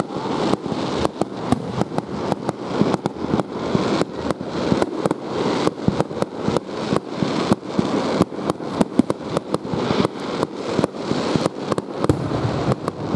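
Fireworks going off in a rapid string of sharp bangs and cracks, several a second, with crackling between them.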